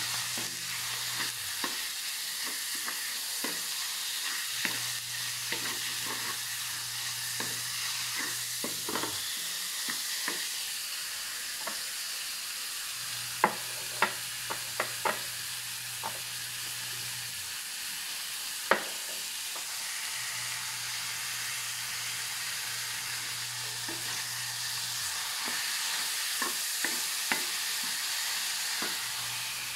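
Ground meat and chopped onion sizzling in a wok, with a wooden spatula scraping and tapping against the pan as it is stirred. A few louder, sharp knocks come around the middle.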